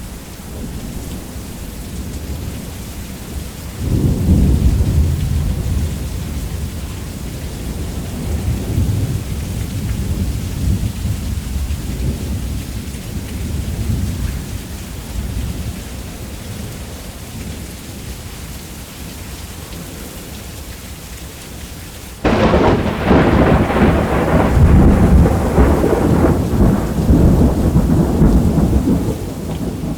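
Heavy rain falling steadily on a roof during a thunderstorm. A deep rolling thunder rumble breaks in about four seconds in and slowly dies away. Later a sharper, louder thunderclap hits and rumbles on for several seconds.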